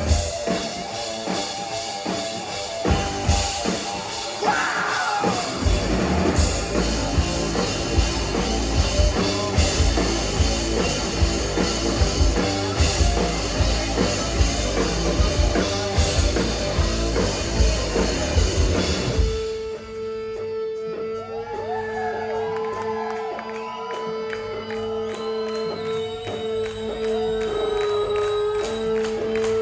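Rock band playing live: loud drums and distorted guitars with a steady beat. About two-thirds of the way through the full band cuts out, leaving a quieter passage of one held note with softer melodic lines over it.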